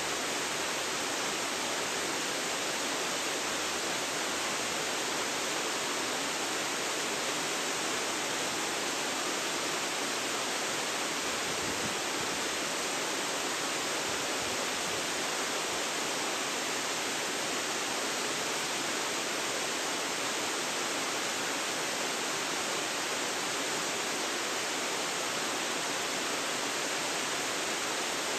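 Waterfall pouring steadily, a continuous, even rush of falling water.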